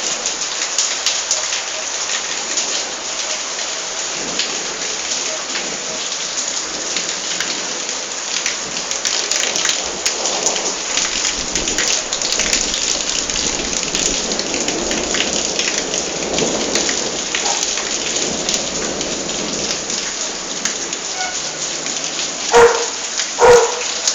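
Heavy rain pouring and pattering on surfaces during a thunderstorm, with a rumble of thunder swelling through the middle. Near the end come two loud, short pitched cries.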